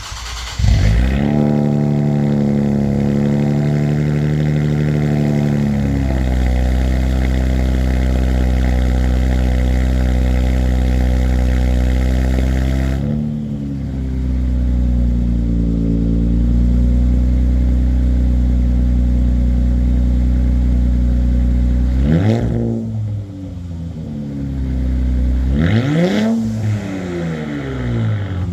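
A 2024 Nissan Z's 3.0-litre twin-turbo V6 starts up through a Stillen competition cat-back exhaust, idles high for a few seconds, then settles to a steady idle. Near the end it is blipped three times, each rev rising and falling quickly.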